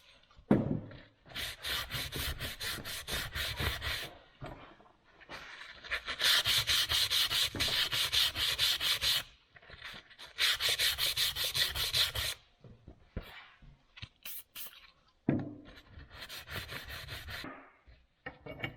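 Scrubbing on the metal vise: quick back-and-forth brush strokes, several a second, in bursts with short pauses, cleaning the parts before new screws go in.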